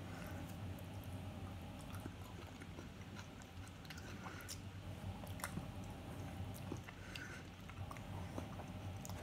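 A person chewing and biting a mouthful of chicken nachos with soggy chips, close to the microphone, with scattered small wet mouth clicks over a low steady hum.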